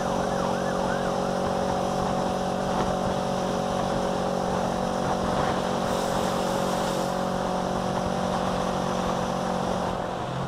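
Loud, steady rush of wind noise with a constant engine hum under it, as heard from a rider's helmet at speed. A faint wavering, siren-like tone comes through in the first second.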